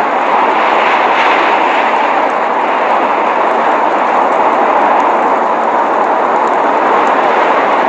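Blizzard wind as a steady rushing hiss, unchanging throughout.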